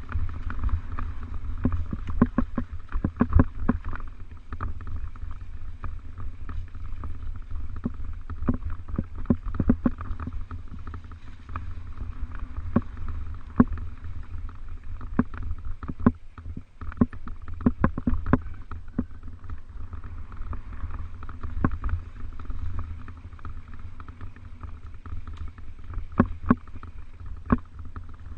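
Mountain bike being ridden over rough ground: a steady low rumble of wind on the microphone, with frequent irregular clicks and rattles.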